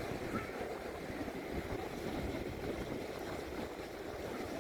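Steady low rumble of sea surf and wind buffeting the microphone on the shore.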